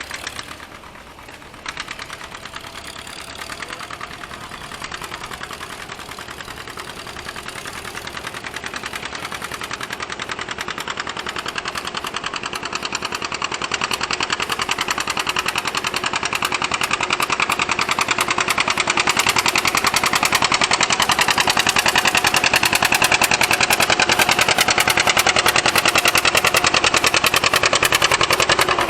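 Antique gasoline farm tractor engine running with a rapid, even firing beat, growing steadily louder over the first twenty seconds and then holding level.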